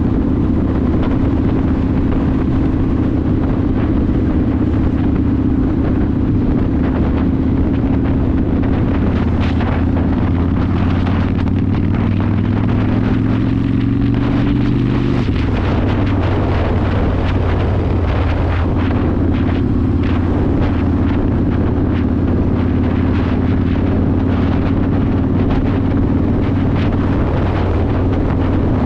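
Yamaha Warrior 1700's V-twin engine through a custom exhaust, running steadily under way with wind noise on the microphone. About halfway through, the revs climb for a few seconds, then drop suddenly and settle back to a steady note.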